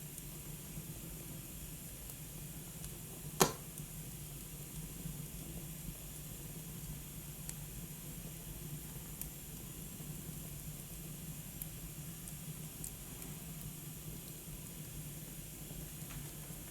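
Wood fire burning in a fireplace: a steady hiss with faint scattered crackles and one loud sharp pop about three and a half seconds in.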